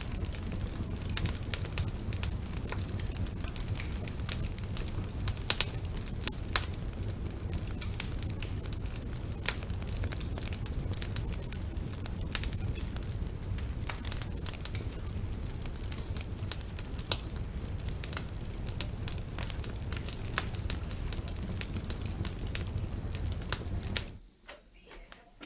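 Wood fire burning in a fireplace: dense, irregular crackles and pops over a low steady rumble. The sound drops away suddenly near the end, leaving only faint scattered crackles.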